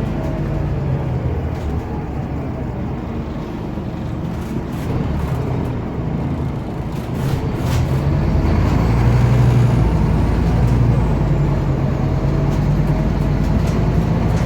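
Cabin sound of a Scania OmniCity city bus under way: the diesel engine runs with a steady low hum. About halfway through, the engine note grows louder as it works harder, with a few light clicks and rattles before that.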